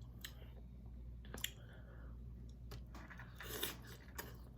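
Faint eating sounds from a seafood boil in sauce: scattered light clicks and a wet squish about three and a half seconds in.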